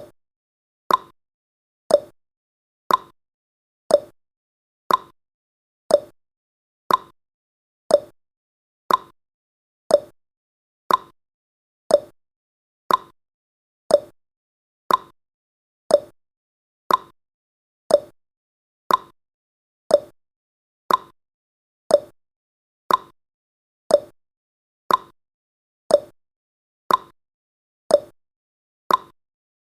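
Countdown timer sound effect: a short, sharp tick once every second, evenly spaced, with silence between.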